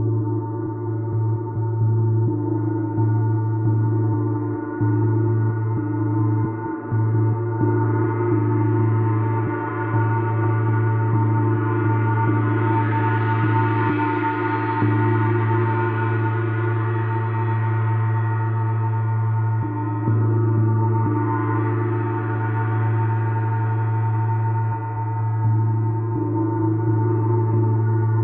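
Gong ringing in a sustained, shimmering wash of many overlapping tones over a deep steady hum, as in a gong bath. Its higher overtones swell and fade about halfway through, and again near three-quarters.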